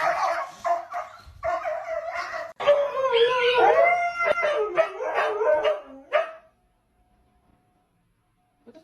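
A dog vocalizing in long, drawn-out calls that waver up and down in pitch for about six seconds, then stops.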